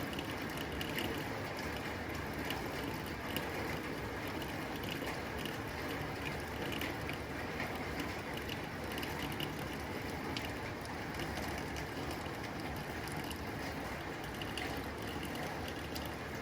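Rain falling steadily on a tin roof, the drops making many small sharp ticks on the metal over an even hiss.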